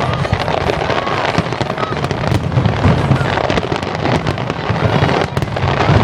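Fireworks display going off: a dense, continuous run of sharp crackles and pops from many bursting shells, with no break.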